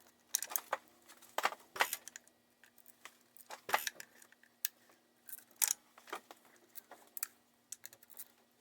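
Irregular metallic clicks and clinks of a hand wrench or socket ratchet working on 8 mm bolts, breaking them loose.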